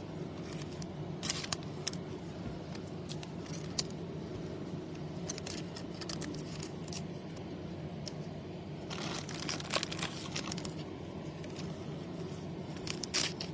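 Trading cards being slid into thin plastic sleeves and handled: scattered soft plastic crinkles and rustles with light clicks, busiest about nine seconds in, over a steady low hum.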